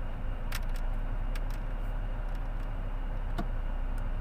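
Car engine running at low speed with a steady low rumble as the car is inched backward and forward. A few sharp clicks sound over it.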